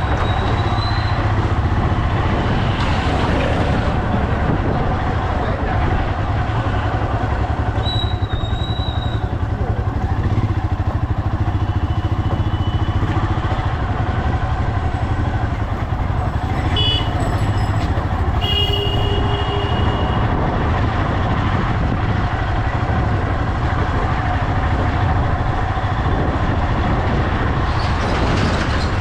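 Motorcycle running on the move with steady engine and road noise, broken now and then by a few short high-pitched beeps.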